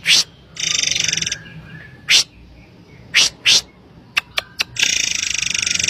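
Murai air singing: loud, sharp, high call notes alternating with buzzy rattling trills. There is a short trill about half a second in, single sharp notes around two and three seconds, a quick run of three short ticks past four seconds, and a longer trill from near the end onward.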